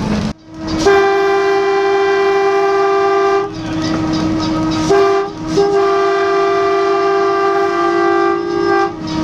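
Steam locomotive's chime whistle blowing a long blast, a short one, then another long one.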